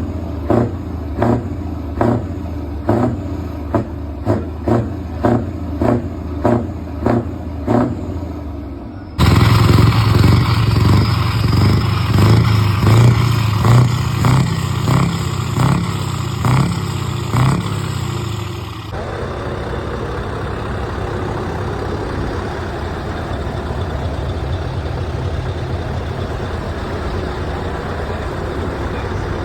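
Heavy Scania trucks running and passing in three cut-together clips. The first has a regular pulsing about twice a second, the second a louder low rumble, and the third a steady even noise.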